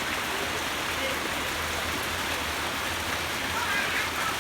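Steady rushing water noise, with faint voices in the background.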